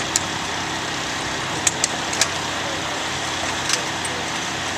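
Vehicle engine idling steadily, with several short sharp clicks on top.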